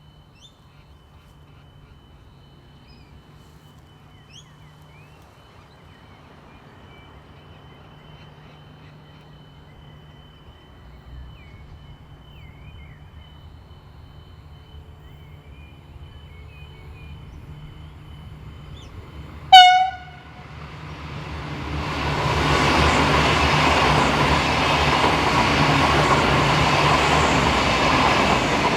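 Diesel-hauled train approaching with a low, steady engine hum, then one short, loud blast of its horn about two-thirds of the way through. The train then passes close at speed, with loud wheel and rail noise over the locomotive engine.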